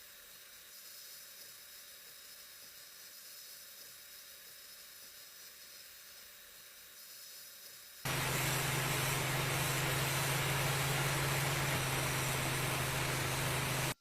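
Faint steady hiss, then about eight seconds in a loud powered machine starts abruptly: a steady rush of air-like noise over a low hum, running evenly until it cuts off.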